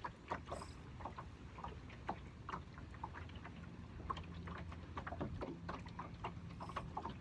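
Water lapping with irregular small splashes and drips over a low steady rumble.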